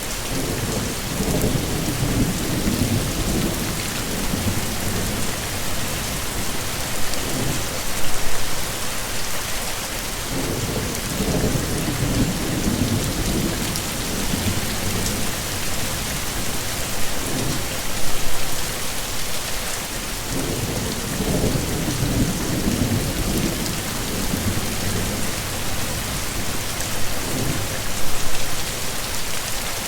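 Heavy rain falling steadily as a dense hiss, with low rolling rumbles of thunder swelling and fading every few seconds.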